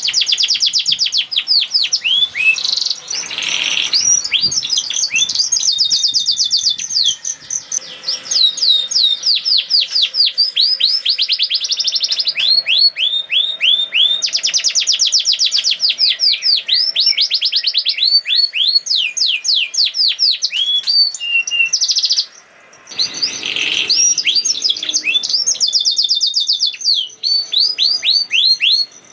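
Domestic canary singing a long, fast rolling song: rapid trills of quick, repeated descending notes, several each second, broken by one short pause about 22 seconds in.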